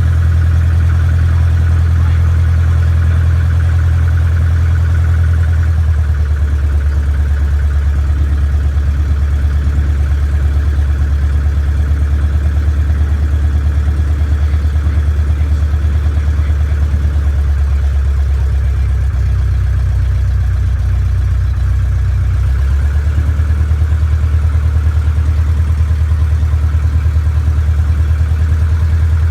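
Small airplane's engine running steadily, a loud low drone heard on board; its note shifts slightly about six seconds in and again around twenty seconds in.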